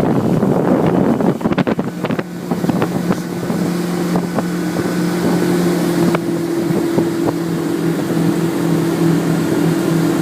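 Wind buffeting the microphone, joined about a second in by a steady, low engine drone that runs on evenly.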